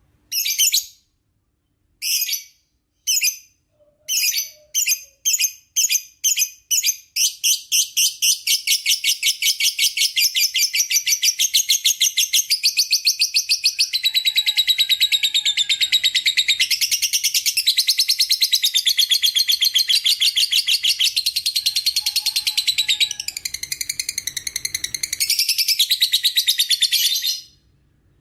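Lovebird giving a long 'ngekek' chatter: a few separate shrill chirps come faster and faster and run into a continuous rapid chattering trill about seven seconds in, which goes on for about twenty seconds and then stops abruptly near the end.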